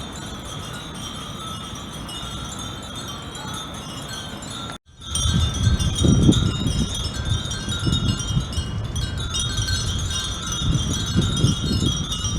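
Many Japanese furin wind bells tinkling continuously in the breeze. The sound cuts out for a moment about five seconds in; after that, gusts of wind buffet the microphone beneath the ringing.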